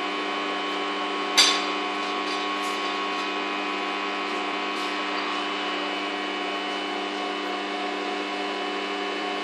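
A steady machine hum made of several constant tones, with a single sharp click about a second and a half in.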